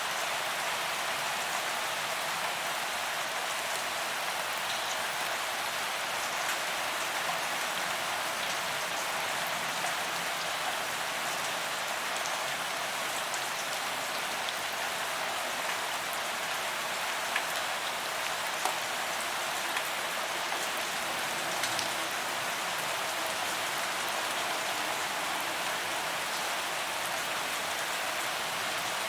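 Steady rain falling on a paved sidewalk, an even hiss of drops on the pavement with a few sharper drop hits about two-thirds of the way through.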